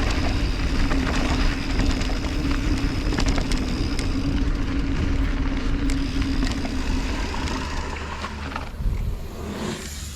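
Mountain bike descending a dirt bike-park trail: a steady rush of wind on the microphone and tyre noise, with many short rattles and clicks from the chain and frame over bumps. It gets quieter about nine seconds in.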